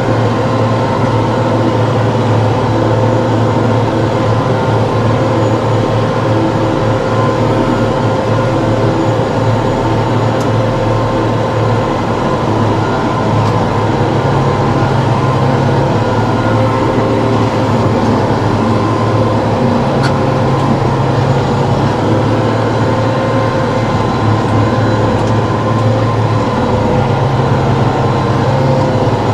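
TYM T654 diesel tractor running steadily under power, a continuous engine drone with no breaks.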